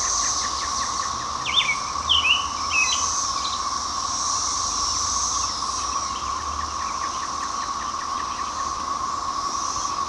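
Chorus of Brood XIX 13-year periodical cicadas: a loud, steady drone, with a few short bird calls about two seconds in.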